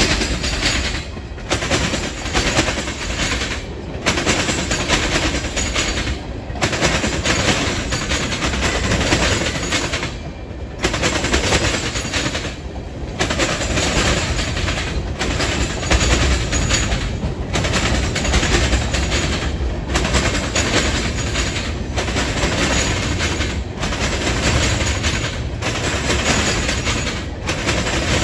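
Freight train cars rolling past close by: steady loud rumble and rapid clatter of steel wheels on the rails, dipping briefly every couple of seconds.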